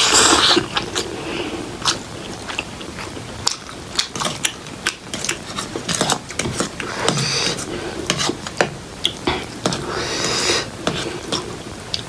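Close-miked chewing of instant ramen noodles, with many small wet clicks and smacks of the mouth, and a few short hissing bursts, one near the start, one past the middle and one near the end.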